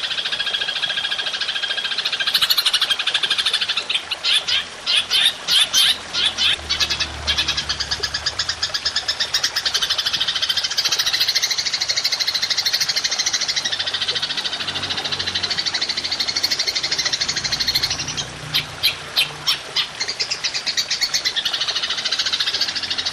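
Belalang emas (golden grasshopper) call: a continuous high, rapid buzzing trill. Twice, about four seconds in and again near the end, it breaks into runs of loud, stuttering chirps.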